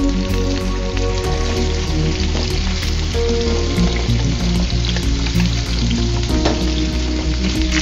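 Sliced potatoes sizzling as they fry in an aluminium pan, stirred with a wooden spatula. Background music with held notes and a steady low beat plays underneath.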